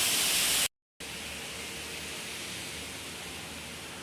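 Steady hiss of rushing water. About three-quarters of a second in it cuts out completely for a moment, then comes back quieter and duller.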